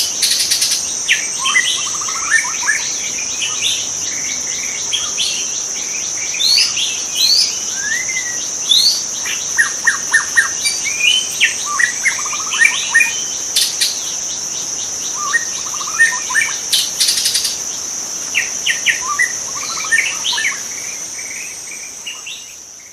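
White-rumped shama singing a long, varied run of quick whistled phrases over a steady high-pitched insect drone, all fading out near the end.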